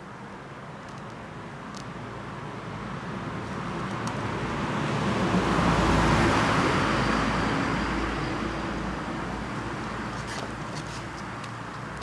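A road vehicle passing by: a steady rushing noise that swells gradually, peaks about halfway through, then fades away.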